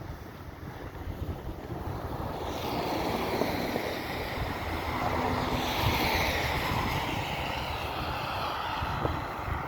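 A car passing on a snow-covered street, its tyre noise swelling from a few seconds in, loudest around the middle, then fading, while wind buffets the microphone with a low rumble throughout.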